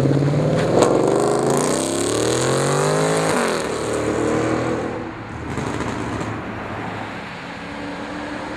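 Porsche Cayman R's flat-six, fitted with a Fabspeed Maxflo race exhaust, accelerating hard with its pitch climbing steadily for about three seconds. The pitch then drops sharply, and the engine runs on lower and fainter.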